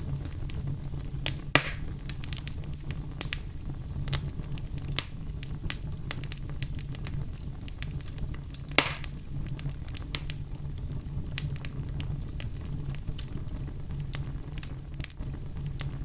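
Wood fire crackling in a fireplace: a steady low rumble of burning with frequent sharp crackles, and two louder pops, one about a second and a half in and one about halfway through.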